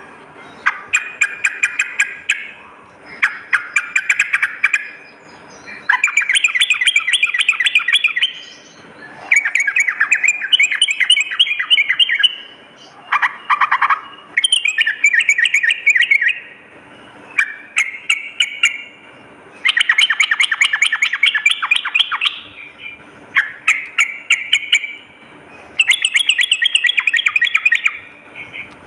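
Yellow-vented bulbul (trucukan) singing: phrases of rapid, bubbling chattering notes, each one to two seconds long, repeated about ten times with short pauses between them.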